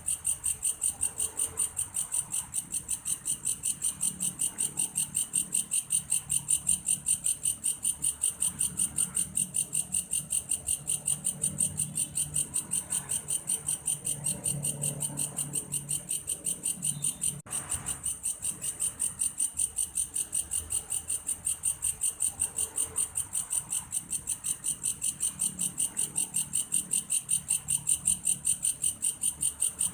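Song of a belalang kayu, a grasshopper whose call resembles a cricket's: a steady high trill of rapid, evenly spaced pulses, broken off for an instant a little past halfway.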